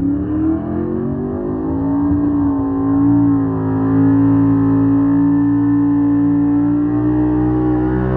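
Pulling truck's engine at full throttle, its revs climbing over the first two seconds and then held high and steady, wavering near the end.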